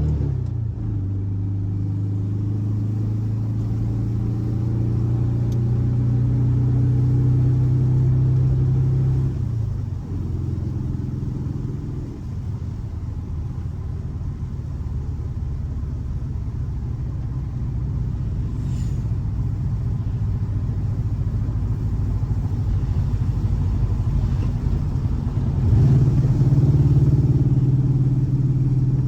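Air-cooled 1584 cc Volkswagen flat-four boxer engine running with a steady rumble. Its pitch eases down just after the start and sinks lower about ten seconds in. Near the end it climbs again and gets louder.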